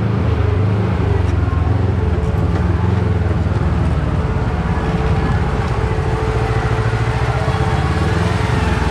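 Side-by-side UTV engine running steadily at low revs as the machine drives a rough trail section.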